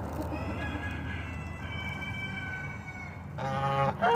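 Pet goose honking once near the end, a loud call of about half a second, with another starting just as it ends.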